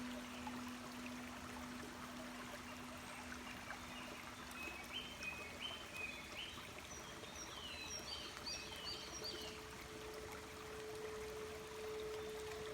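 Crystal singing bowls ringing over a steady babbling stream and birdsong. A low bowl tone fades away over the first half, birds chirp in a quick series from about five to nine seconds in, and a higher bowl tone swells in near the end.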